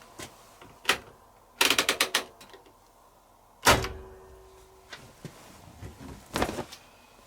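Clicks and knocks from a Miele Novotronic W715 washing machine's door being handled after the cycle has ended: a quick run of clicks, then a loud thunk with a brief ringing tone after it, and another knock near the end.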